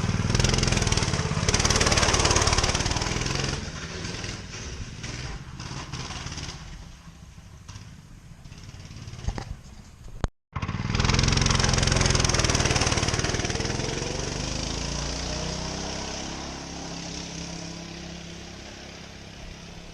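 Motoland RT200's single-cylinder four-stroke engine running after an oil change, left to work the fresh oil through. It runs louder for the first few seconds and then quieter. About ten seconds in it cuts briefly to silence, then runs loud again and gradually quietens.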